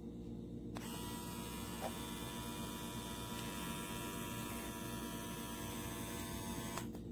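Cordless electric pet grooming trimmer switched on and running for about six seconds with a steady whine, then switched off, over a constant low electrical hum.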